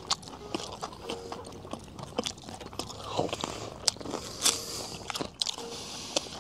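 People biting and chewing grilled skewered meat, with irregular wet clicks and smacks of eating.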